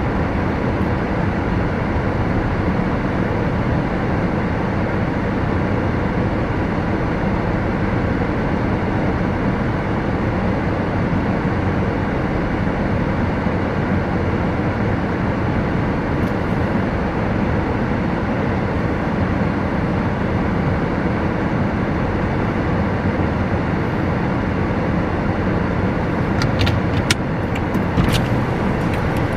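Steady car noise, a continuous even rumble of a running vehicle, with a few light clicks near the end.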